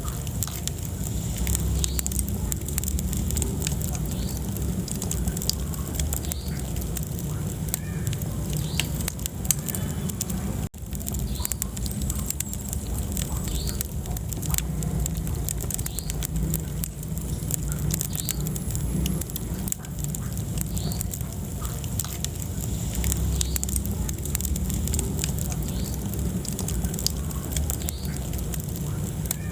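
Wood fire burning in a fireplace: a steady low rumble of flames with frequent sharp crackles and pops. The sound cuts out for an instant about ten seconds in.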